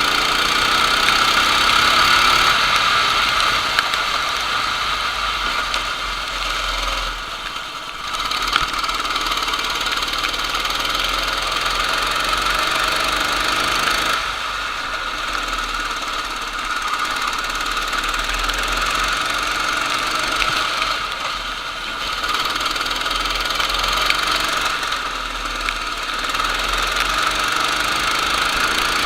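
Racing kart engine running at high revs, its note easing off briefly several times before picking up again.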